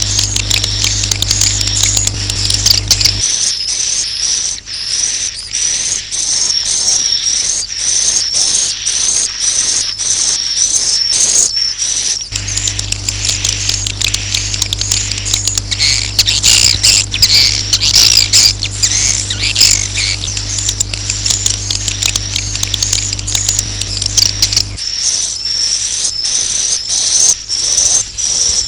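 Edible-nest swiftlets' roosting call ('suara inap'), a dense, fast twittering of high chirps and clicks repeating without pause, the kind of track played in swiftlet houses to draw the birds in to roost. A steady low hum sounds under it for the first three seconds and again through the middle.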